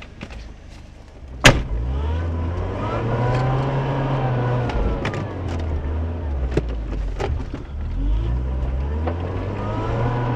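A car's engine heard from inside the cabin on a rough dirt track. It speeds up and eases off twice, rising and falling in pitch. A single sharp knock about a second and a half in is the loudest sound, and smaller knocks and rattles come from the car jolting over the bumps.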